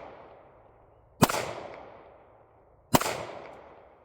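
Two 9 mm gunshots about a second and a half apart, each a sharp crack followed by a rolling echo that fades over about a second. The echo of an earlier shot is still fading at the start.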